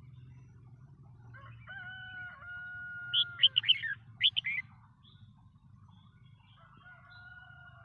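Red-whiskered bulbul singing a burst of loud, sharp, short notes about three to four and a half seconds in. Behind it, a fainter long drawn-out call is held for over a second, twice.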